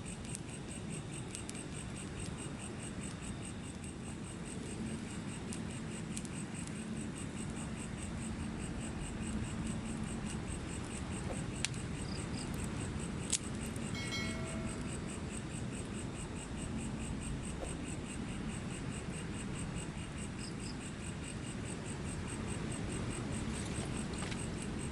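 Insects chirping steadily in a rapid, even pulse over a low steady rushing noise. A couple of sharp clicks come about twelve and thirteen seconds in, and a short tonal call follows just after.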